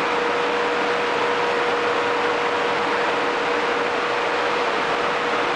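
Ship's engine-room machinery running: a loud, steady, even noise with a constant hum.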